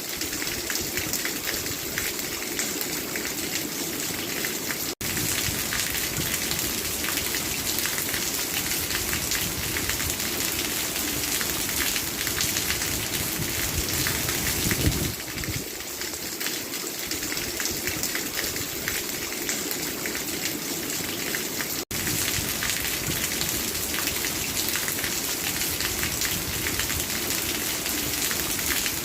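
Steady rain falling, a dense even patter of drops, broken by two momentary gaps about five seconds in and near the end.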